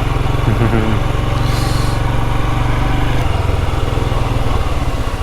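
Triumph Daytona sport bike's engine running steadily under way, with a brief hiss about a second and a half in.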